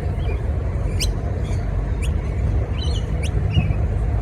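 Wild parrots calling with short, shrill squeaks about a second apart, with a brief burst of chattering about three seconds in, over a steady low rumble.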